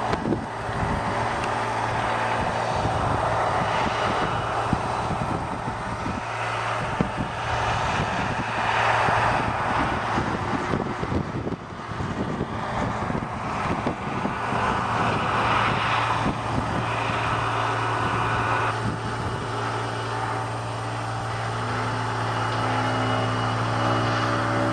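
Radio-controlled model airplane's motor and propeller running in flight, the sound swelling and fading several times as the plane passes near and away.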